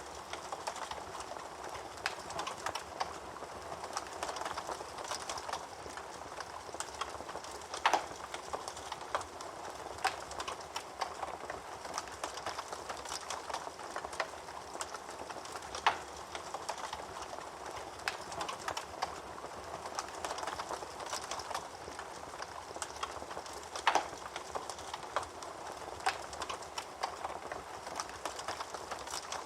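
Wood fire crackling in a fireplace: a steady hiss of burning with many small crackles, and a louder pop about every eight seconds.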